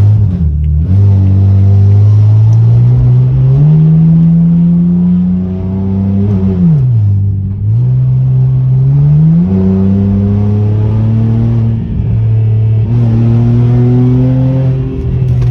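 BMW E90's freshly swapped engine running and being revved. The pitch climbs slowly, falls back, and climbs again several times.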